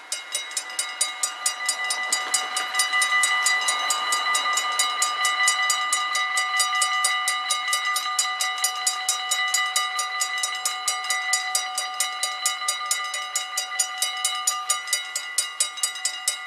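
Level crossing warning bell starting abruptly and ringing in rapid, even strikes, about five a second, each strike carrying a bright ringing tone: the crossing is activated for an approaching train.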